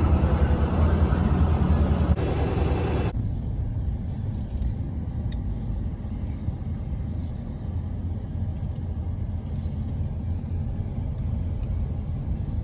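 Heavy road or rail vehicle rumbling loudly for about three seconds, then dropping to a quieter, steady low rumble.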